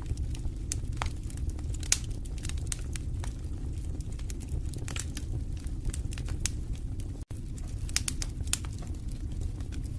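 Fireplace fire crackling: a steady low rumble of flames under frequent sharp pops and snaps, one louder pop about two seconds in. The sound cuts out for an instant about seven seconds in.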